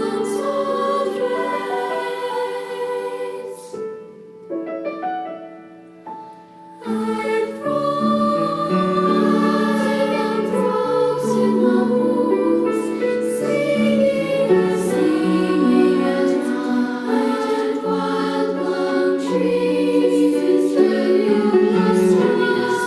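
Two-part treble choir singing with piano accompaniment. About four seconds in the voices drop out and a few soft notes carry on alone for some three seconds before the choir comes back in.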